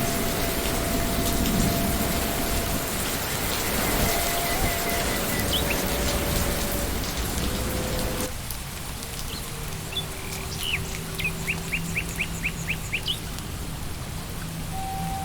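Steady rain hiss, which drops suddenly to a quieter level about eight seconds in. A bird then calls a quick run of about nine short falling chirps, while faint held notes of ambient music sound underneath.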